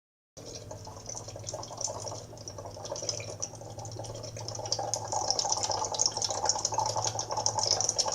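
Sound sculpture giving a dense, continuous crackle over a steady low hum. It starts suddenly just after the beginning and grows louder about halfway through.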